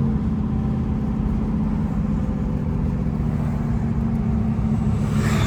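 Engine and road noise inside a moving station wagon's cabin: a steady low drone, with a brief rushing sound near the end.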